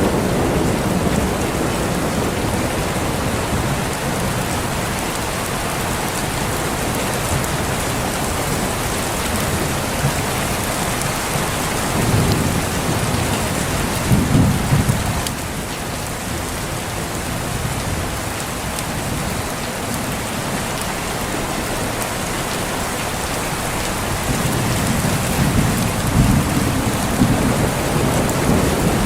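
Steady rain with low rolls of thunder, the rumbles swelling at the start, twice around the middle, and again near the end.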